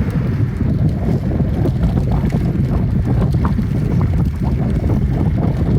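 Wind buffeting the microphone of a phone carried on a moving bicycle: a steady low rumble.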